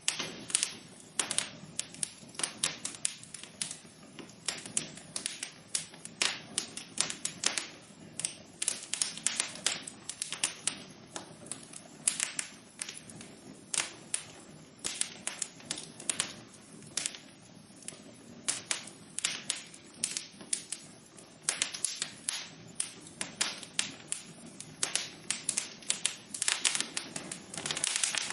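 Wood fire burning in a fireplace, crackling with many irregular sharp pops and snaps over a soft low rush of flame.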